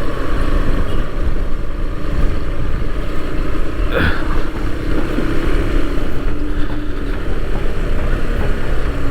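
Bajaj Pulsar NS 160 motorcycle riding along, its single-cylinder engine running under heavy wind rush on the microphone, with a brief sharper sound about four seconds in.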